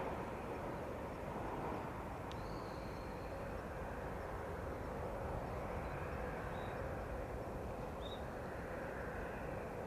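Boeing 737-800's CFM56 jet engines heard at a distance as a steady, even rumble and hiss, with a few faint short chirps over it.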